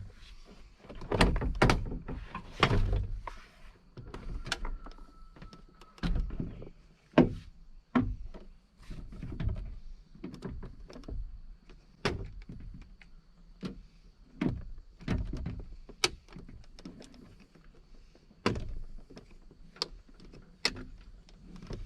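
Hand work on a pickup truck's door: irregular knocks, clicks and thumps from parts being handled, with a few heavier thumps in the first seconds.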